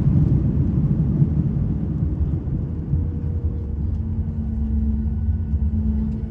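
Cabin noise of a Boeing 737 rolling out after landing: a steady low rumble of engines and wheels that eases off as the aircraft slows. A faint steady hum comes in about four seconds in.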